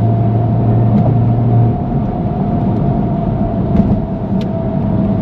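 BMW F80 M3 Competition's twin-turbo straight-six and open valved exhaust running on the move, over steady road and tyre noise. A steady low drone cuts out about two seconds in.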